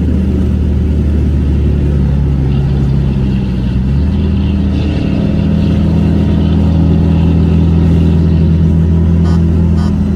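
A car engine running steadily with a deep, low hum, its note shifting slightly about four seconds in. A few faint ticks near the end.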